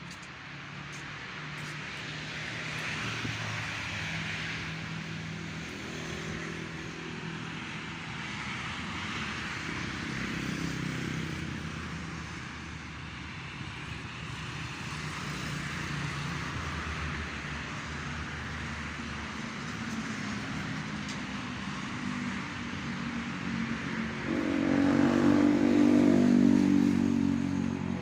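Road traffic, with motor vehicles driving by. One vehicle passes close and loud about 24 seconds in, swelling and then fading.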